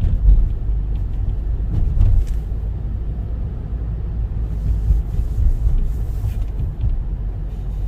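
Car driving along a city street: a steady low rumble of road and engine noise, with a couple of brief louder jolts.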